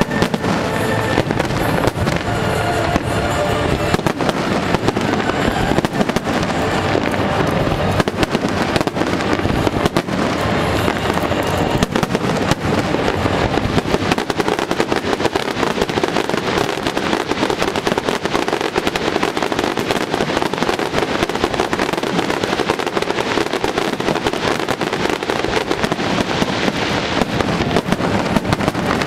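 Aerial fireworks show: a dense, unbroken barrage of bursts and crackling, with music playing underneath.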